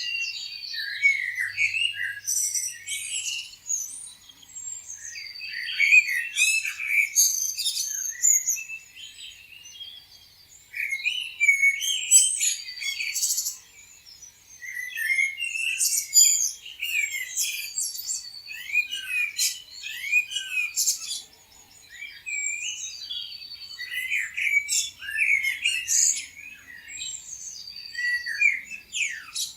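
A chorus of many small birds chirping and calling at once, with short overlapping high chirps and quick rising and falling notes that thin out briefly now and then.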